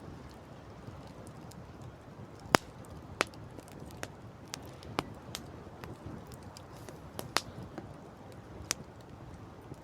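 Campfire crackling with irregular sharp pops, the loudest about two and a half seconds in, over a steady low rush of wind and sea.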